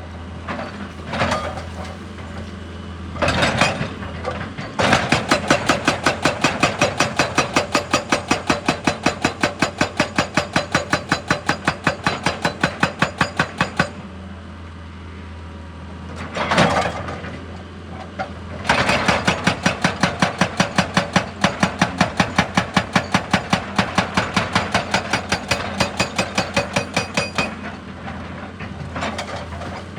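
Hydraulic breaker hammer on an excavator striking in two long runs of rapid, even blows, about six or seven a second, over the machine's steady engine hum.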